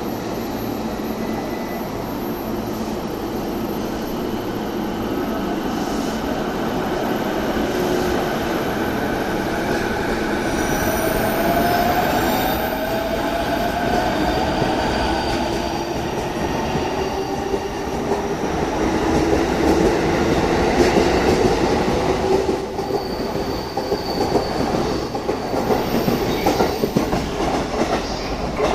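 JR East E233 series 5000 electric train moving through a station platform: wheels on the rails with squeal, and drive tones gliding up and down in pitch midway through. Rhythmic wheel clicks over the rail joints grow more prominent in the last few seconds.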